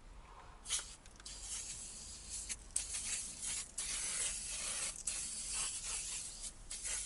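Aerosol can of upholstery cleaner spraying in a run of long hissing bursts with short breaks between them, starting just under a second in.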